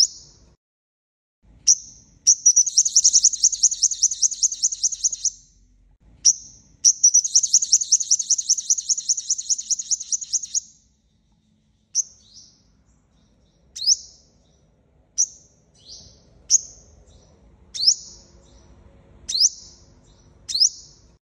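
Sunbird calling: a sharp high chip, then two fast buzzy trills of about three and four seconds. From about twelve seconds in it gives a series of single sharp chips, roughly one every second or so.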